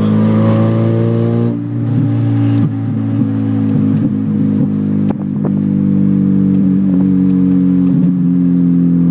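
Mazda 323 engine running with no mufflers on its exhaust: the revs climb slightly for about a second and a half, ease off with a brief dip, then hold a steady drone with a few sharp clicks.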